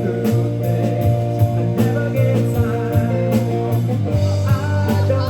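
Live rock band playing: electric guitars over a steady bass line, with regular drum-kit hits.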